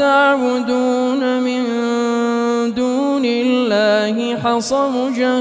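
A male reciter's voice chanting Quran recitation in the melodic tajweed style, holding one long steady note, with ornamented melodic turns around four seconds in.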